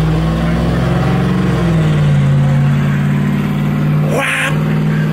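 Car engine idling: a steady hum that drops a little in pitch about two seconds in, with a short hiss about four seconds in.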